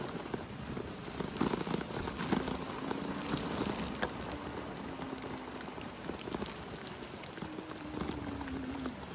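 Electric Segway crawling over wet sand: a steady rolling rumble with many small crackles from the tyres, and a faint low motor whine that wavers in pitch from about two seconds in.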